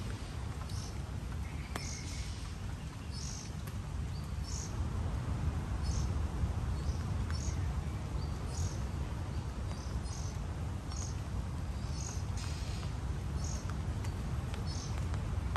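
A bird repeats a short, high-pitched chirp a little more than once a second, over a steady low rumble.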